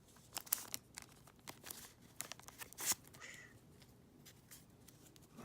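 Foil wrapper of a Yu-Gi-Oh! booster pack crinkling and crackling as it is torn and handled, a quick run of sharp crackles over the first three seconds, then quieter rustling.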